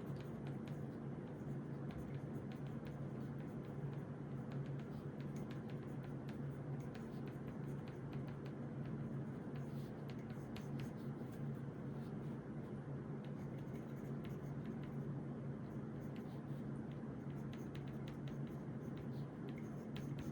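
Writing strokes of a pen or pencil scratching on notebook paper, with small ticks, over a steady low hum.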